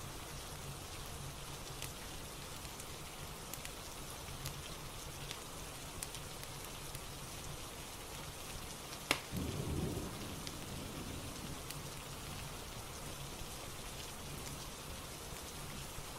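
Steady rain falling, with faint scattered crackles from a fireplace. About nine seconds in comes one sharp crack, followed by a low rumble that fades over a second or two.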